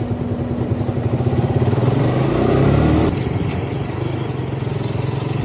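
Motorcycle engine running, speeding up with its pitch rising from about two seconds in, then easing off after about three seconds.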